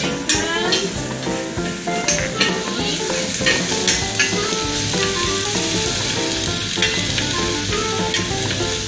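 Onions and brown sugar frying in hot oil in a stainless steel wok, sizzling as they are stirred with a metal spatula. The spatula scrapes and knocks against the pan now and then. The sizzle gets stronger in the second half.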